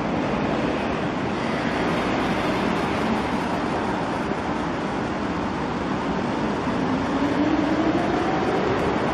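Keikyu 800 series electric commuter train pulling slowly into a station platform: a steady rumble of wheels and running gear that grows louder as it comes closer, with a tone rising in pitch over the last two seconds.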